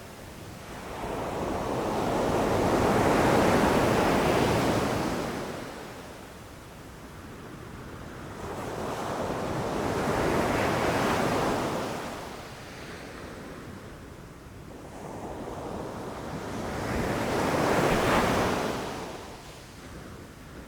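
Ocean surf: three waves rushing in and breaking, each swelling to a peak and fading away over several seconds, with some wind on the microphone.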